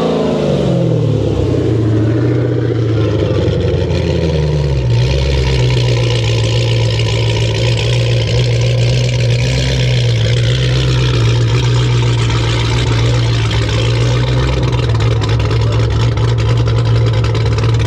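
Dodge Charger engine coming down from a rev in the first second or so, then idling steadily and loud.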